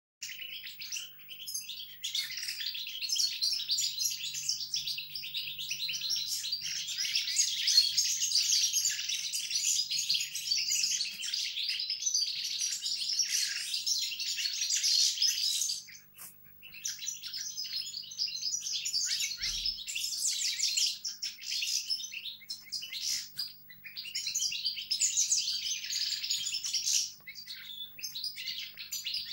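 Pet songbirds practising their song: dense, rapid twittering and warbling that breaks off briefly twice.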